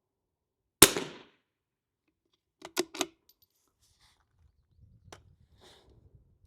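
.22 LR rimfire rifle firing a single shot about a second in, followed about two seconds later by a quick run of three sharp metallic clicks, typical of the bolt being worked to extract the case.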